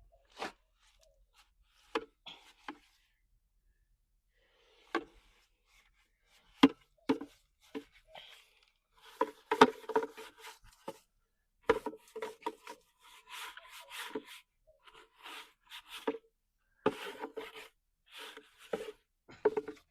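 A hand tool knocking and scraping on a hard surface. There are a few separate sharp knocks at first, then quicker knocks mixed with scraping from about halfway through.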